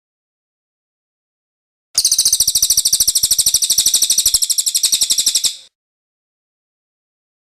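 Cililin bird singing one rapid rolling trill of high, evenly repeated notes. It starts about two seconds in, lasts about three and a half seconds, then stops, with silence before and after.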